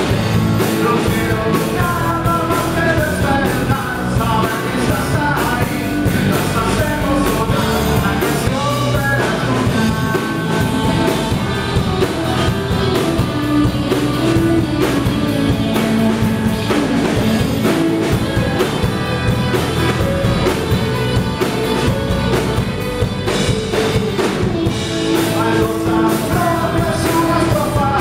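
Rock band playing live, with a singer's voice over the full band and a steady drum beat.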